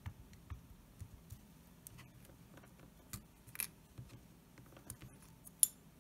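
Scattered light clicks and taps from hands handling a plastic HO scale locomotive chassis and a small circuit board, with a sharper click near the end.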